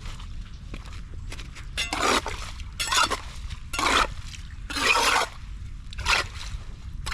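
Water splashing and sloshing in five short bursts about a second apart, over a low steady rumble.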